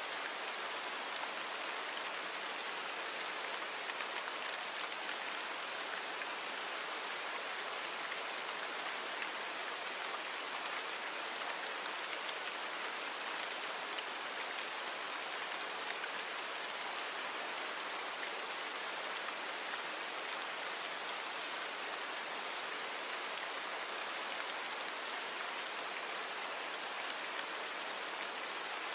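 Steady rainfall: an even, unbroken hiss of rain with small individual drops pattering on a surface.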